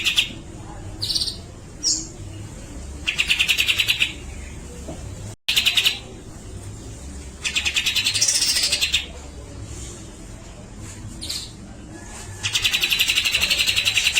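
Grey-cheeked bulbul (cucak jenggot) calling: several fast rattling trills, each about a second or so long, with short single chirps in between.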